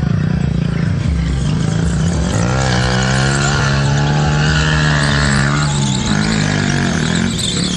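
Motorcycle engine revving: a little over two seconds in its pitch climbs, holds high for about three seconds, then drops back, over a steady low engine rumble.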